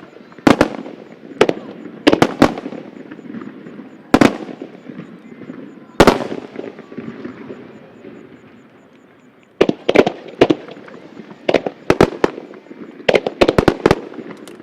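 Aerial firework shells of a starmine barrage bursting: sharp bangs with echoing tails, one after another. They pause for about three seconds past the middle, then come in a quick cluster.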